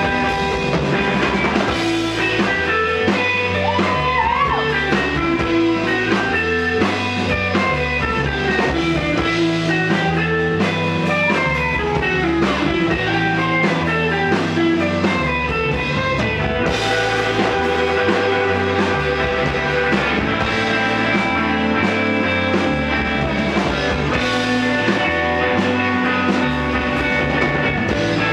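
Live rock band playing an instrumental passage: electric guitars over bass and a drum kit keeping a steady beat, in a psychedelic rock style.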